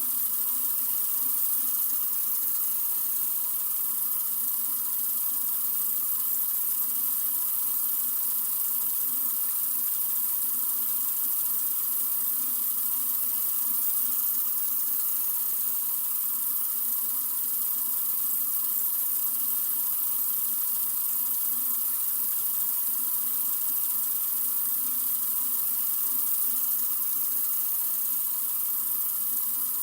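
Sink faucet running in a steady, unbroken stream of water, an even hiss with no change.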